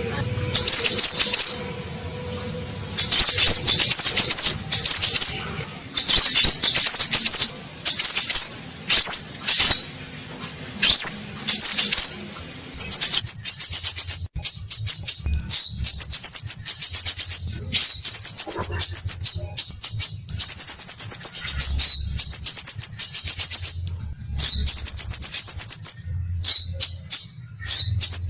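Scarlet minivet (sepah raja) singing: loud, high, rapid chirping phrases, broken by short pauses at first and running almost without a break through the second half.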